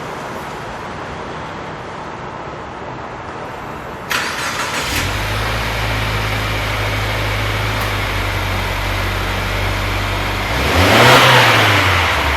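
Subaru WRX S4's turbocharged boxer four, heard through a Kakimoto aftermarket exhaust, starting up about four seconds in and settling into a steady low idle. Near the end it is revved once, the pitch rising and falling before it drops back to idle.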